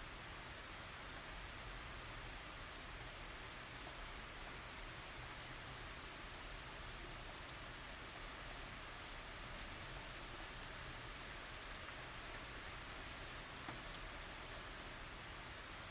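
Steady tropical rain falling, an even hiss of many small drop ticks with no thunder.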